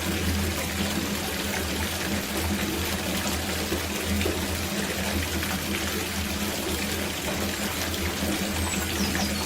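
Water running from a tap into a copper bathtub, a steady pouring splash as the tub fills, with a low steady hum underneath.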